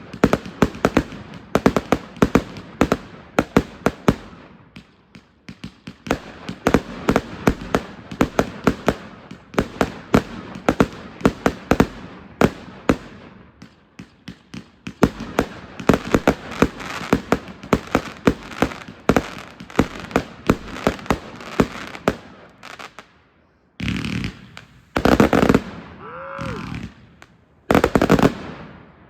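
A 555-shot consumer fireworks cake firing rapid shots and breaks, several a second, in a steady barrage. Near the end it changes to a few longer, loud hissing-crackling bursts, one with a short whistle that rises and falls.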